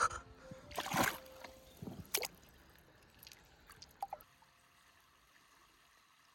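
Water sloshing and splashing in a few short bursts over the first four seconds, the loudest about a second in, then near silence.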